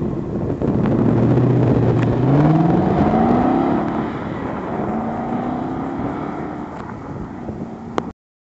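2012 Ford Mustang GT's 5.0-litre V8 running through its stock exhaust and accelerating. The engine note rises in pitch in two pulls, then steadies and grows fainter, and the sound cuts off abruptly near the end.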